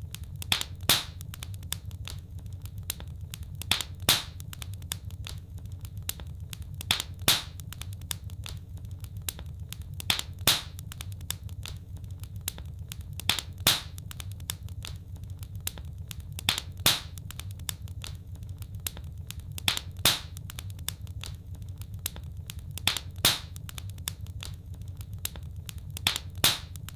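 Wood fire in a fireplace crackling, with a low steady rumble and sharp pops that come back at even intervals, about one every three seconds, each a quick double pop.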